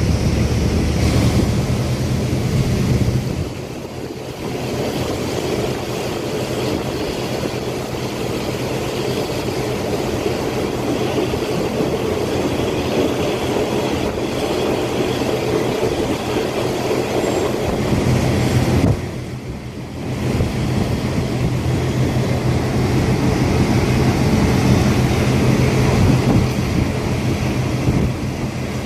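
Diesel passenger train running along the track: a steady engine drone with wheel and rail noise, dipping briefly about four seconds in and again around nineteen seconds.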